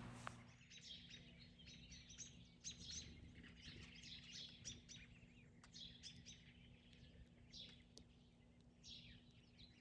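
Small songbirds chirping faintly, with many short, high chirps coming in scattered bursts.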